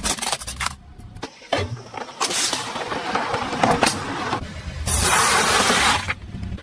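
Car tyres rolling over and crushing objects: a series of crunches and sharp cracks over a low engine rumble, with a longer loud crunching stretch near the end.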